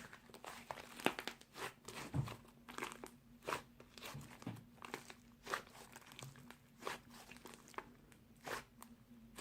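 Clay slime being pressed and worked by hand, giving irregular crunchy clicks and pops about once or twice a second. A faint steady hum runs underneath.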